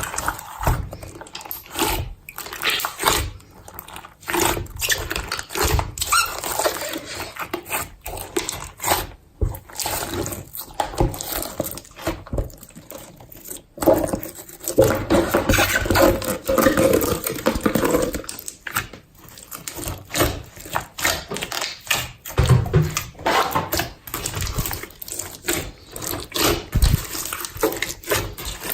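Slime being mixed and squished by hand, with irregular wet squelches and many small popping clicks.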